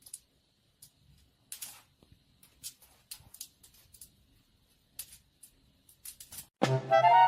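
Scattered soft clicks and scratchy ticks in a quiet room, with a faint steady high whine; near the end, loud music with drums comes in.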